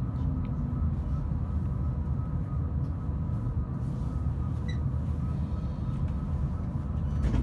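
Running noise heard inside a passenger train as it moves along a station platform: a steady low rumble with a faint steady hum above it.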